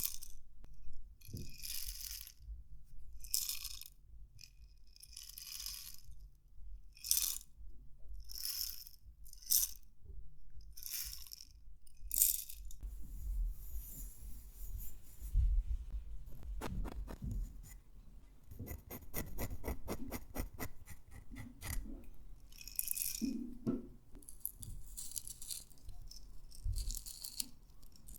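Close-miked ASMR wooden triggers: short scratching strokes on wood, about one a second, giving way about halfway through to a run of rapid clicking taps, with a few more scratching strokes near the end.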